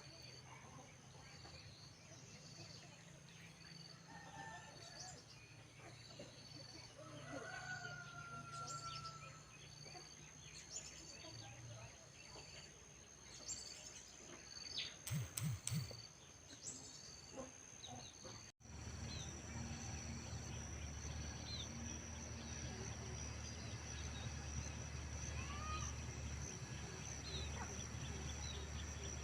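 Faint outdoor background with a few short bird calls over a steady high whine and a low hum. A brief cluster of sharp clicks comes about halfway through.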